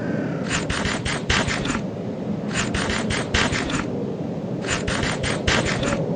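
Eating sounds: three bouts of about five quick crunches each, over a steady low drone.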